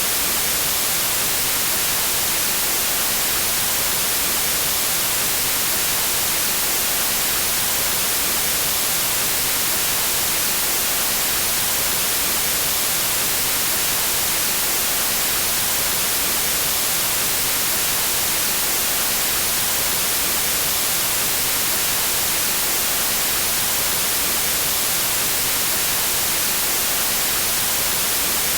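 Steady synthetic white noise: an even, unbroken hiss across all pitches, brightest in the highs.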